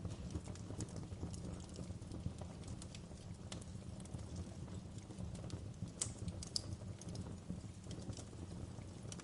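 Wood fire crackling in a fireplace: irregular sharp pops and snaps over a steady low rumble of burning, with the loudest pops a little past the middle.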